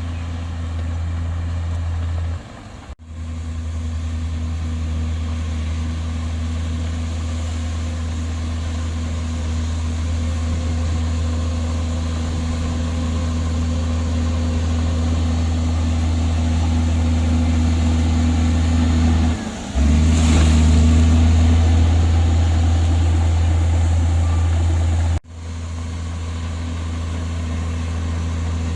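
Komatsu bulldozer's diesel engine running with a steady low drone. The sound drops out abruptly twice, and the engine runs louder for a stretch from about two-thirds of the way through.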